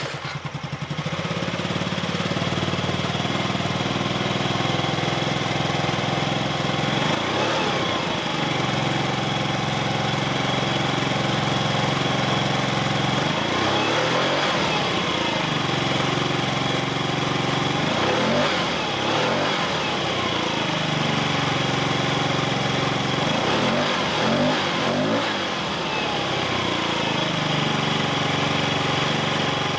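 Yamaha Vino SA26J scooter's 50cc two-stroke engine catching right at the start and settling into a steady idle, with the throttle blipped up and back down about four times.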